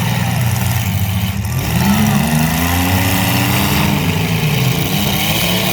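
Mini-truck engines running and revving, rising and falling in pitch several times, with more than one engine heard at once.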